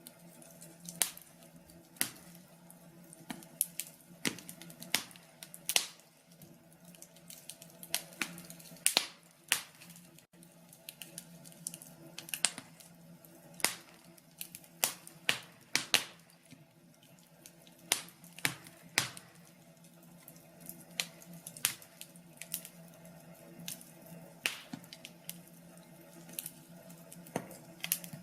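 Wood fire crackling in a fireplace: irregular sharp pops and snaps, a few each second at uneven spacing, some much louder than others, over a faint steady low hum.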